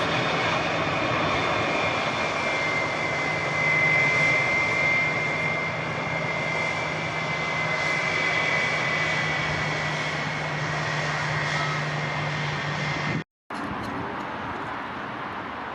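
Jet airliner engines running close by, a steady loud rush with a high whine that sinks slightly in pitch. It cuts off abruptly about thirteen seconds in, leaving a quieter rush of wind.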